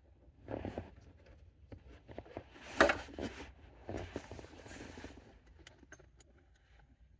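Rustling and clattering of hands and tools at work, with scattered sharp clicks. It comes in three spells, about half a second in, around three seconds in (the loudest clatter) and around four to five seconds in.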